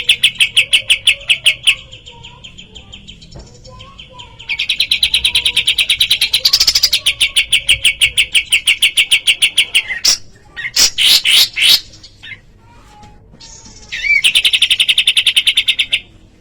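A kapas tembak, a small Indonesian bulbul, calling in long, fast, even trills of about ten notes a second. A short run of loud sweeping whistled notes breaks in about ten seconds in. The trills resume near the end.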